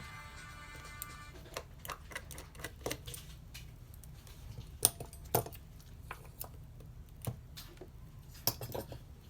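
Music fading out about a second in, then scattered small sharp clicks and taps of hand tools on a smartphone's parts during repair work, over a steady low hum.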